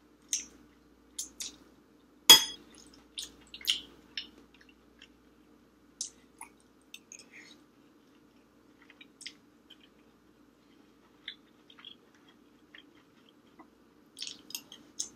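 Close-up eating sounds: chewing and wet mouth smacks, with a metal spoon clinking against a glass bowl of rice. The loudest is one sharp, ringing clink about two seconds in.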